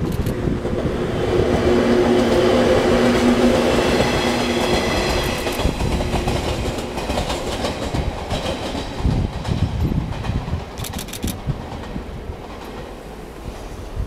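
Shinano Railway 115-series electric train passing close by. A steady whine rises to its loudest in the first few seconds. From about seven to eleven seconds in, the wheels clack over the rail joints, then the train fades.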